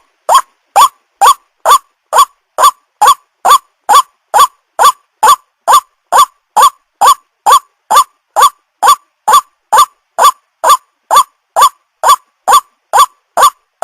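White-breasted waterhen calling: one short, harsh note repeated evenly about twice a second, the unbroken 'ruak-ruak' series the bird is named for.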